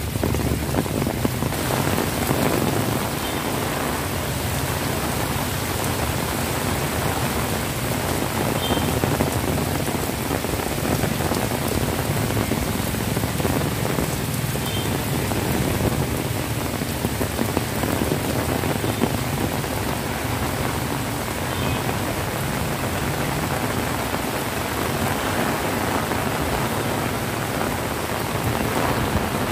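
Extreme heavy rain pouring steadily on a wet road and the trees around it, a dense, even hiss with no let-up.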